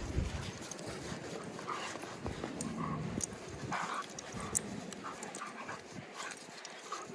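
Dogs panting, with a few short whines.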